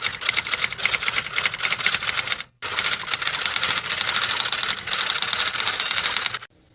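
A fast, uneven run of sharp clicks, a typing-like clatter, broken by a brief gap about two and a half seconds in and stopping shortly before the end.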